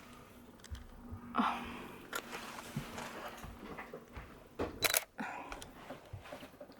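Small knocks, clicks and rustles from people moving about inside a small enclosed space, with a brief voice sound about one and a half seconds in and a cluster of sharp clicks near the five-second mark.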